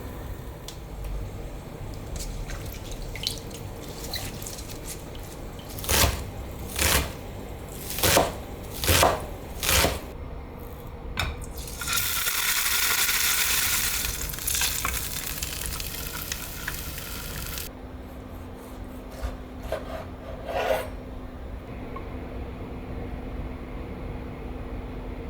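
Kitchen utensils and cookware clinking and knocking while food is prepared, with a run of about five loud knocks, then a steady hiss for about five seconds in the middle that cuts off suddenly, and a few softer knocks after it.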